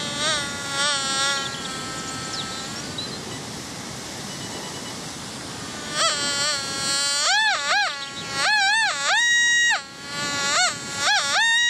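XP Deus metal detector's target tone in squealer mode, its pitch rising and falling as the coil sweeps over a buried target. A string of short chirps in the first second or so fades into a lull, then from about halfway in come repeated arching tones, some held steady at the top for a moment.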